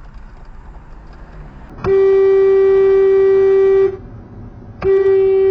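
Car horn honking in two long single-pitch blasts, the first about two seconds and the second about a second, over steady road noise.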